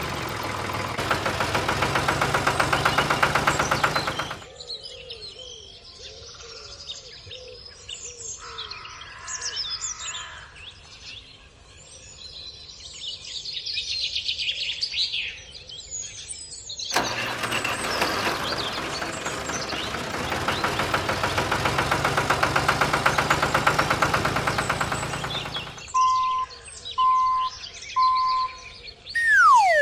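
A small engine or motor running at a fast steady rate, twice, with birds chirping in between. Near the end come three short beeps and a quick falling whistle sound effect.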